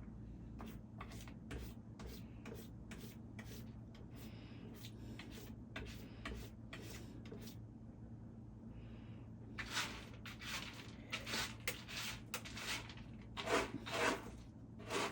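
Cat scratching and raking litter to bury its droppings: repeated short, irregular scraping strokes, louder in bursts after about ten seconds and again near the end.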